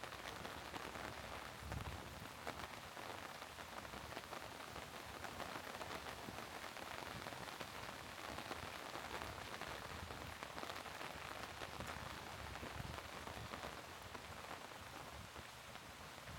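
Steady rain falling, with a dense patter of drops on hard surfaces.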